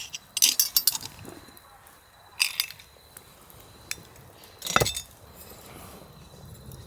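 Cookware and utensils clinking and knocking in three short bunches: a quick run of clinks in the first second, another about two and a half seconds in, and a sharper knock a little before five seconds.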